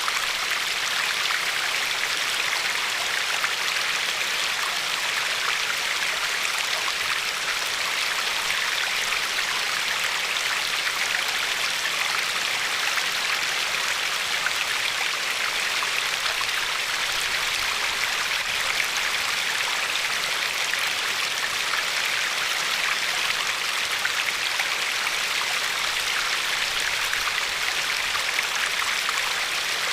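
Glacier-fed river flowing and lapping along a pebble shore: a steady, even rush of water with fine splashing and bubbling all through.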